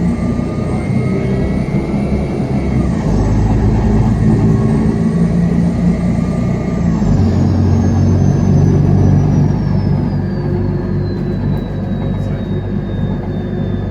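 Mercedes-Benz bus engine running under way, with a steady low engine note that changes about seven seconds in. A thin high whine rides over it and falls steadily in pitch through the last several seconds.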